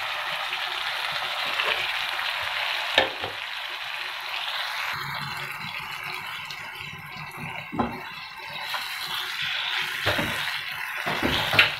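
Okra frying in a spiced onion-and-yogurt masala in a frying pan, a steady sizzle that thins out about halfway through. A spatula stirs and scrapes through it, knocking against the pan a few times.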